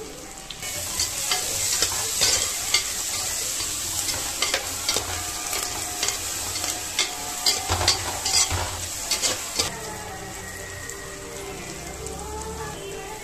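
Onions and tomatoes sizzling in hot oil in a clay pot while a metal spoon stirs them, with repeated sharp clicks and scrapes of the spoon against the pot. The sizzling and clicking die down about ten seconds in.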